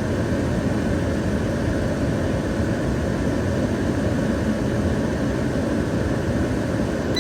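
Steady rushing noise of a GM Chevrolet truck's air conditioning running with the engine idling.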